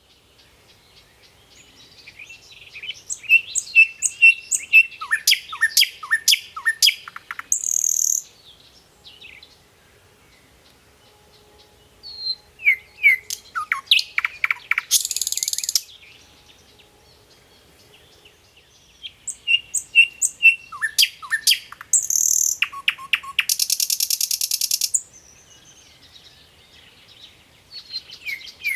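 A sikatan londo (a small songbird, the flycatcher the title calls a 'nightingale') singing in repeated bouts. Each bout is a run of quick chirps and downward-slurred whistles that ends in a fast buzzy rattle, with short pauses between bouts.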